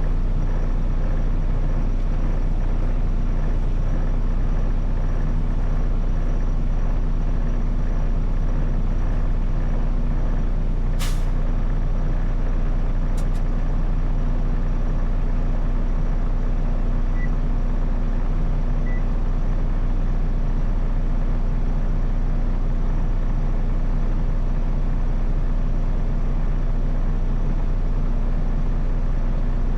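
Semi-truck diesel engine running at a steady low drone. About eleven seconds in there is a brief, sharp burst of noise, followed by two faint clicks.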